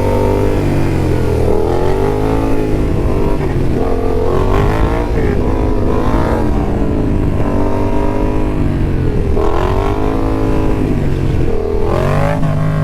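Yamaha XSR700's 689 cc parallel-twin engine being ridden, its revs rising and falling again and again as the throttle is worked, with wind buffeting the microphone.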